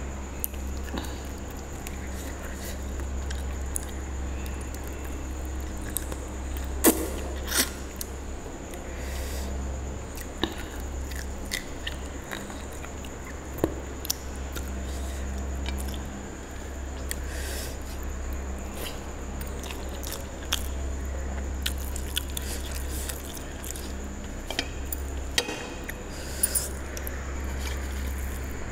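Close-up mouth sounds of chewing rice and mutton curry eaten by hand, with scattered short sharp clicks, the loudest two about seven seconds in. A steady low hum runs underneath.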